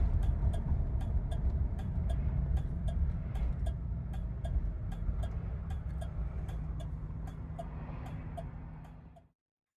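1977 Cadillac Eldorado Biarritz's big V8 engine running at a steady idle, with a regular light ticking about three times a second. The sound slowly fades and then cuts off suddenly near the end.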